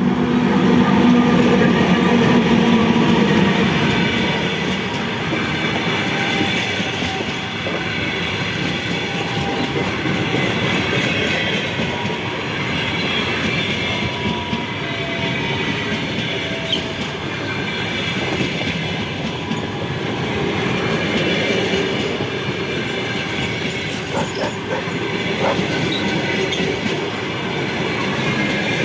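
A train rolling past: a steady rumble of wheels on rail, loudest in the first few seconds, with thin, high wheel squeal through most of it and rail-joint clicks near the end.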